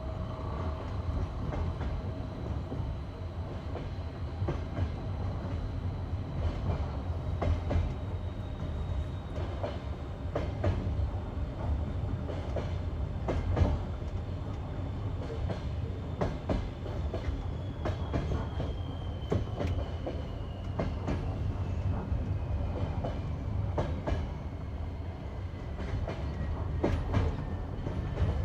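Passenger train's wheels clattering over the rail joints of jointed track: a steady rumble broken by irregular clicks and knocks. A faint high whine slowly falls in pitch over the second half.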